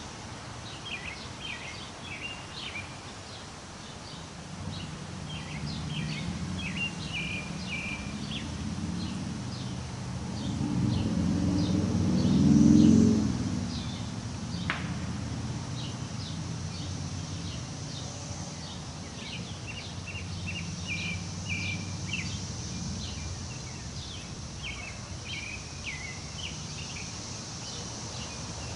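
Wind moving through trees, building to a gust about halfway through and then easing, with small birds chirping repeatedly throughout.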